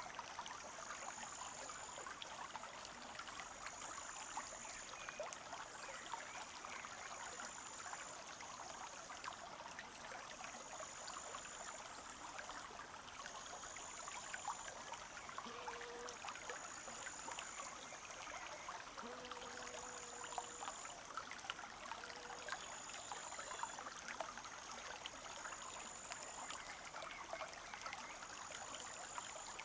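Forest stream running and trickling in a steady rush of water. A short, very high thin note repeats about every two seconds over it.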